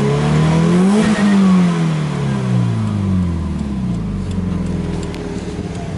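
Subaru Impreza WRX STi's turbocharged flat-four engine free-revved in park: the pitch climbs to a peak about a second in, falls back over the next two seconds and settles to a steady idle. Heard from inside the car.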